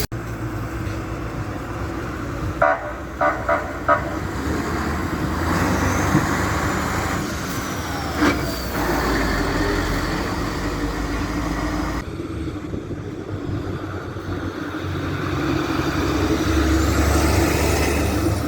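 Fire trucks' diesel engines running as they drive, with four short horn toots about three seconds in and one more short blast a few seconds later.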